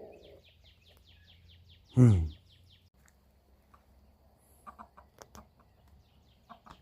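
Free-ranging chickens calling: one loud short call that falls in pitch about two seconds in, then a few soft short clucks later on. A fast series of high chirps, several a second, runs through the first three seconds.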